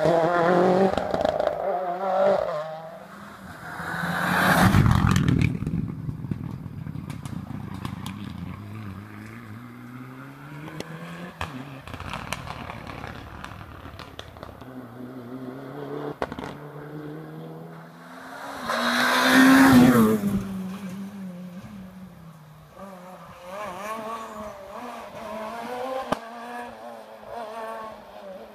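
Rally cars at full speed on a special stage, engines revving up and down through gear changes; two cars pass close by, about five seconds in and again near twenty seconds, each with a loud rush of engine and tyre noise, and another car is heard coming up near the end.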